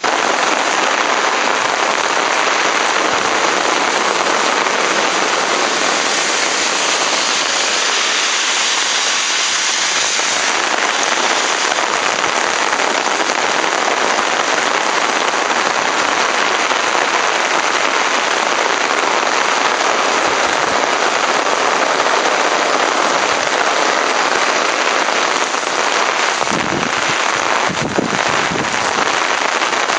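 Typhoon rain falling hard, a loud steady hiss, with a few brief low rumbles near the end.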